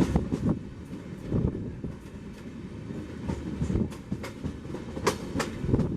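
Passenger train coach running on the rails, heard from on board: a steady low rumble with irregular clacks as the wheels pass over rail joints, two sharp ones near the end.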